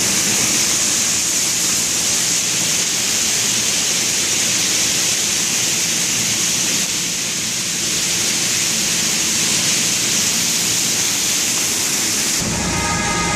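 Water pouring and splashing down inside a subway station like heavy rain, a loud steady hiss. About twelve seconds in, a low rumble with a whine comes in, a subway train arriving.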